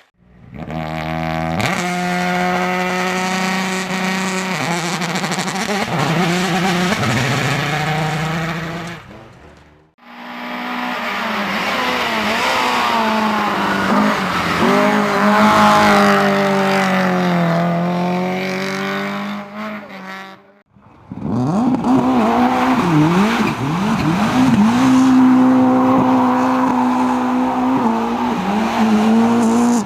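Racing car engines at high revs in three separate shots cut together. The engine pitch rises and falls as the cars accelerate, lift off and change gear, with quick up-and-down revving in the last shot.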